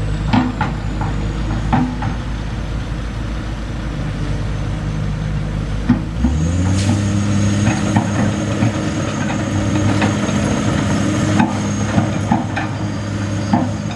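Diesel truck engine running steadily at low revs, then revving up about six seconds in and holding the higher engine speed, with a few short knocks and clanks over it.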